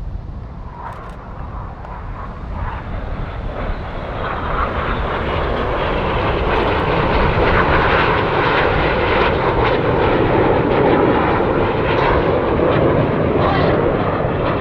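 BAE Hawk jets flying past at an airshow, their jet engine noise swelling over the first several seconds and then holding loud and steady.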